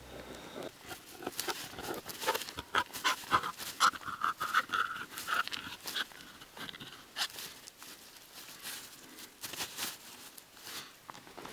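Rustling and clattering of camping gear being handled at close range: a busy run of short clicks and scrapes, with a brief rapid rasping stretch about four seconds in.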